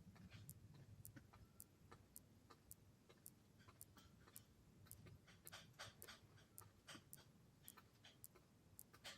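Faint, irregular clicks of water drops dripping, a few a second, over a low steady rumble.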